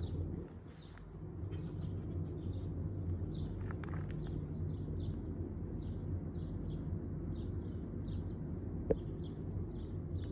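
A small songbird calling, a long run of short high chirps, often in pairs, a few each second, over a steady low hum. One sharp click comes near the end.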